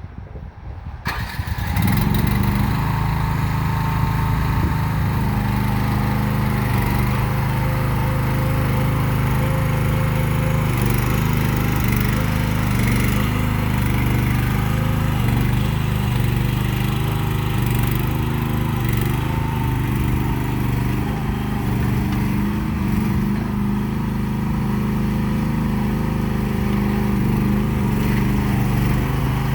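Gasoline engine of a MIVA VA13 mini excavator starting up in the first couple of seconds, then running steadily at an even speed.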